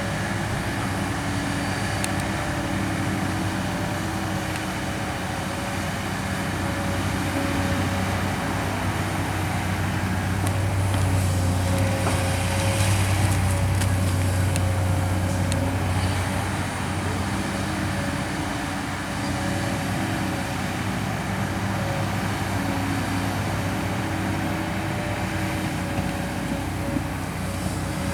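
Kobelco SK200 excavator's diesel engine running steadily with a low hum, growing somewhat louder for several seconds in the middle before settling back.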